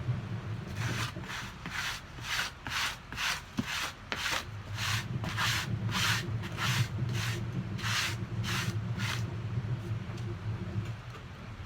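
About twenty quick rubbing strokes, about two and a half a second, like a brush or scourer worked back and forth, stopping about nine seconds in. A steady low hum runs underneath and stops near the end.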